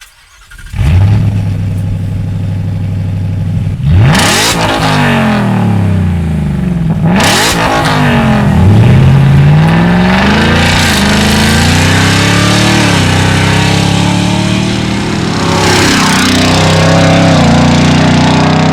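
Ford F-150 Raptor R's supercharged 5.2-litre V8 through a Borla aftermarket exhaust, starting up about a second in with a loud flare and settling to a steady idle. It is revved sharply twice, then revved in longer pulls that rise and fall in pitch.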